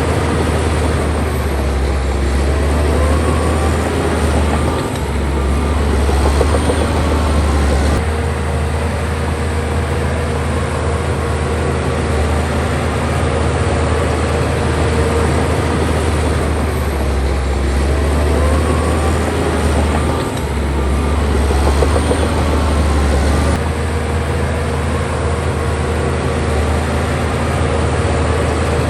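Bulldozer's heavy diesel engine running steadily with a deep, continuous drone that dips briefly about five seconds in and again about twenty seconds in.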